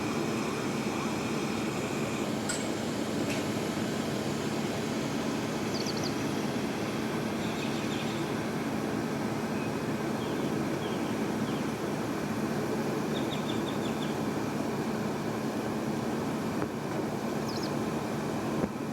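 A mobile crane's engine runs steadily with a constant low drone. A few faint, short high chirps sound over it.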